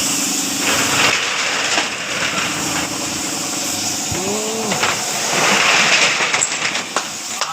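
A steady hiss over a low hum, with scattered clicks. The hum stops about three seconds in, and the hiss swells louder about five seconds in. A short squeak rises and falls in pitch near the middle.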